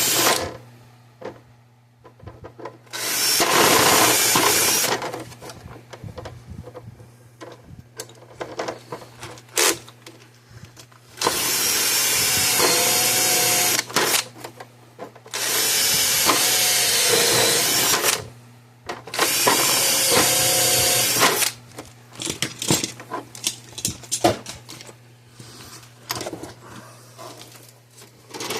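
Power drill boring holes with a larger bit for cable ties, run in four bursts of a few seconds each with its motor whine shifting as it works. Between the bursts come clicks and handling knocks.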